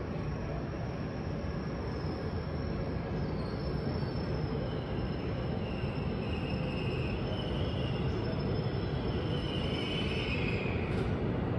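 Tohoku Shinkansen train moving along a station platform: a steady rumble of running gear, with high whining tones coming in and out from a few seconds in until near the end.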